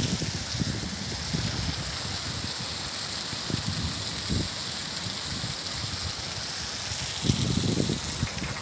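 Heavy rain falling in a steady hiss, with a few brief low rumbles: one about four seconds in and a longer one near the end.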